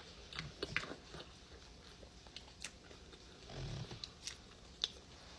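A person chewing a chili dog with chili, cheese and jalapeños close to the microphone: soft, wet mouth clicks and smacks at irregular moments, with a short low sound about three and a half seconds in.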